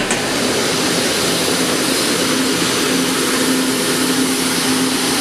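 Chocolate ball mill machine running: a steady mechanical drone with a low hum that grows stronger about two seconds in.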